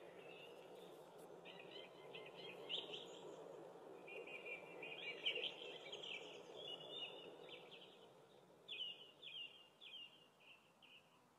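Small birds chirping in quick runs of short high notes over a faint, steady background of outdoor ambience.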